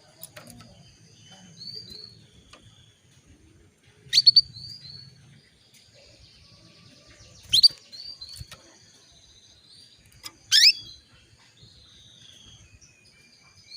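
Female canary calling, the kind of call that spurs male canaries into song: short high chirps repeated, broken by three loud, sharp, falling call notes about four, seven and a half and ten and a half seconds in.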